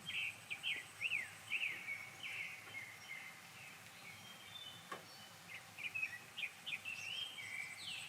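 Small songbirds twittering: quick chirps and short down-slurred notes in two flurries, one over the first couple of seconds and another from about five and a half seconds on, over a faint steady background hiss.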